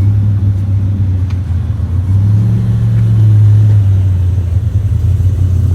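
A car engine running steadily at idle, a low rumble that swells a little from about two to four seconds in.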